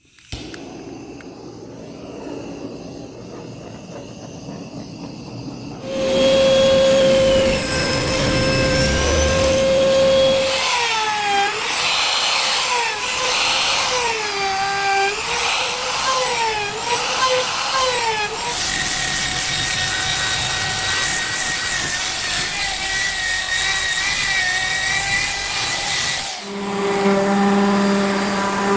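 Woodworking power tools running in a series of cut-together shots. The motors hold a steady pitch, and in the middle passage the pitch dips and recovers again and again as the tool bites into the wood. A different, lower-pitched machine takes over near the end.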